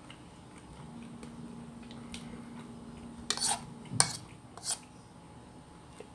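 Cutlery clinking against dishes during a meal: a few sharp clinks in the second half, the loudest about four seconds in, over a faint steady hum.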